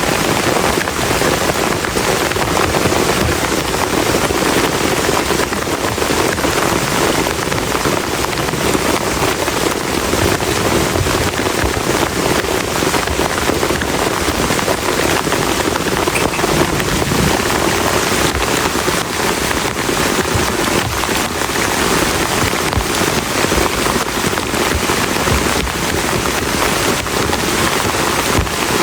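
Heavy rain falling steadily, a dense, even patter of countless drops hitting a surface.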